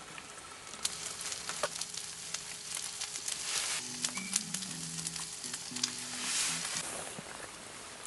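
Food sizzling in a hot pan over an open fire, with scattered pops and crackles; the sizzle swells twice, around three and a half and six and a half seconds in.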